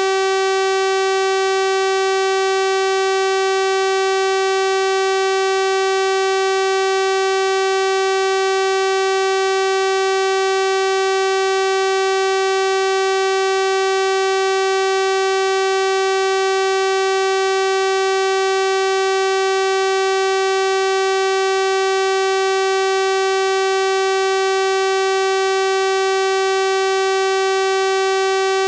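Synthesized 384 Hz sawtooth-wave test tone, held steady and unchanging: a bright, buzzy continuous tone.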